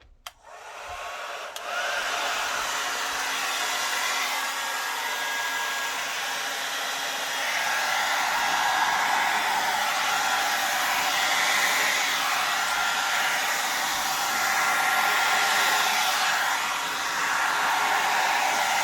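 Small hair dryer switched on and running steadily, its blowing noise building over the first couple of seconds.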